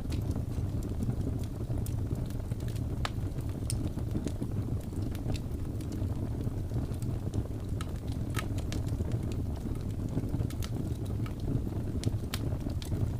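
Wood fire in a fireplace crackling, with sharp irregular pops scattered throughout, over a steady low rumble of blizzard wind.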